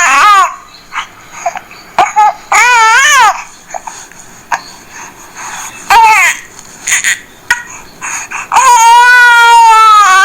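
Recorded baby crying played back from a reborn-doll sound box: several wavering wails with short gaps between them, a brief one about six seconds in and a long, loud wail near the end.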